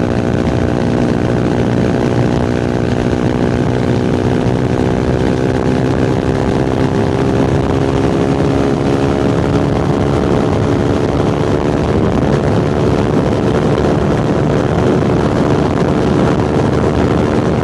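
Fantic Caballero Scrambler 125's single-cylinder four-stroke engine and exhaust running under way at a fairly steady speed, with small shifts in pitch and a rushing noise underneath.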